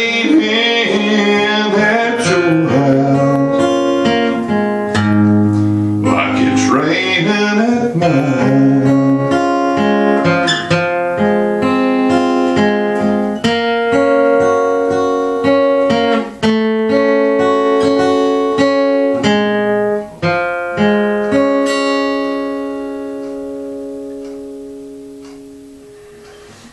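Acoustic guitar playing the closing bars of a country song, strummed and picked chords, with a final chord left ringing and fading away over the last few seconds.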